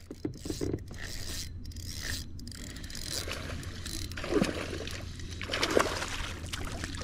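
Irregular knocks, scrapes and clicks of fishing gear being handled aboard a kayak, with a couple of louder swishes about four and six seconds in.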